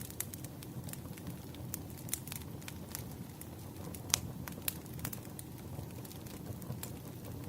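Wood fire crackling: a steady low rumble of burning logs with irregular sharp pops and snaps, one louder pop about four seconds in.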